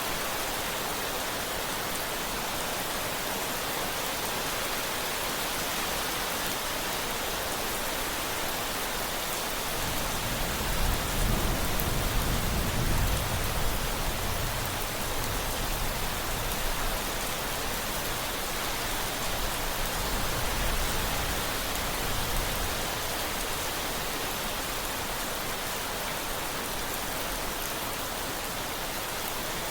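Steady rain falling, with a low rolling rumble of thunder that comes in about a third of the way through, swells twice and dies away after about twelve seconds.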